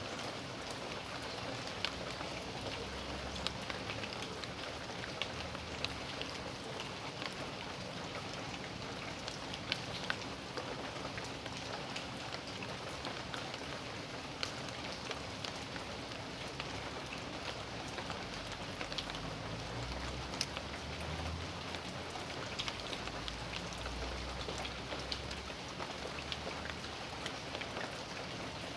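Steady rain falling on a backyard, an even hiss with many separate drops ticking and splatting on nearby surfaces.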